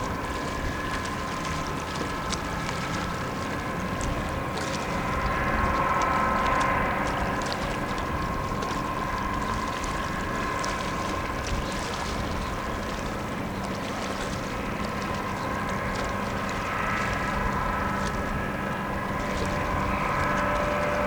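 Tugboat engines droning steadily as the tug pushes a barge, with a few held tones over the noise. The drone swells slightly a few seconds in and again near the end.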